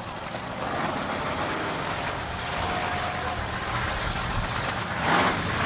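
Heavy monster truck engine running, a steady low rumble that swells louder about five seconds in.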